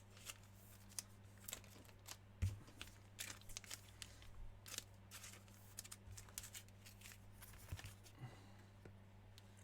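Faint handling of trading cards and pack wrappers: scattered small clicks and rustles as cards are slid and peeled apart, over a steady low electrical hum.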